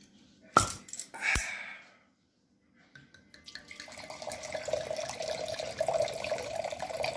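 Two sharp knocks, then wine pouring from a bottle into a glass in a steady splashing stream, beginning about three and a half seconds in.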